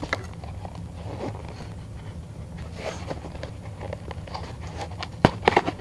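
Hands opening a small cardboard box with a mug inside: scattered soft taps and scrapes of the packaging, with a sharp knock about five seconds in. A steady low hum runs underneath.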